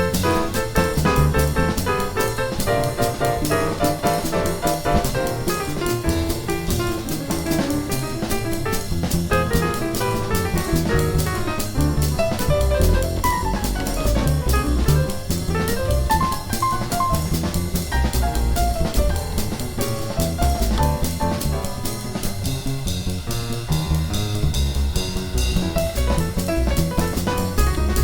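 Jazz piano trio playing: acoustic piano lines of quick notes over double bass and a drum kit keeping time with steady cymbal strokes.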